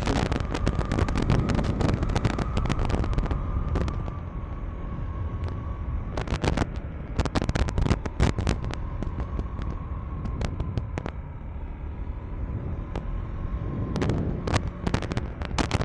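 KTM 390 Enduro R's single-cylinder engine running under way on a rough dirt road, with a heavy rumble of wind and road noise and many sharp clicks and knocks from riding over rocks and gravel.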